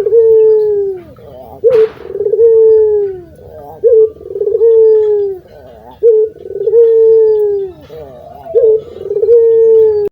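A puter (Barbary dove) cooing over and over. Each call is a short rising note followed by a long, drawn-out falling coo, repeated about every two seconds, five times. A single sharp click comes about two seconds in.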